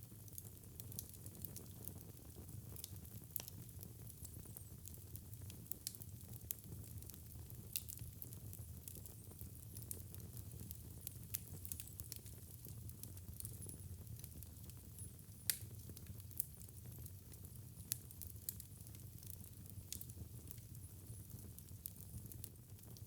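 Fireplace fire crackling: frequent small, faint pops and snaps over a steady low rumble, with one sharper pop about two-thirds of the way through.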